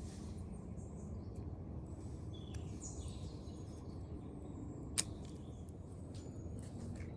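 Steady low outdoor background noise with a few faint bird chirps, and one sharp click about five seconds in.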